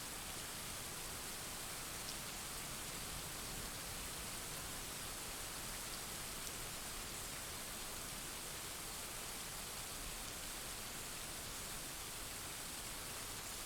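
Steady heavy rain falling, an even hiss with a few faint drop ticks and no thunder.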